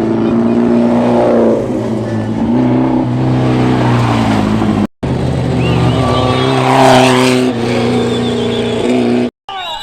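Off-road race vehicle engines running hard as the vehicles pass, in two separate shots. The sound cuts off abruptly about halfway through and again near the end.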